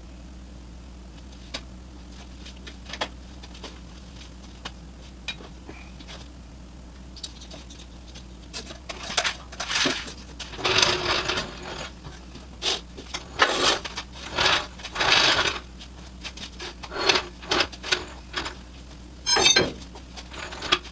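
Hand work on parts in a shop: scattered sharp clicks, then from about eight seconds in repeated short bursts of scraping and rubbing, over a steady low hum.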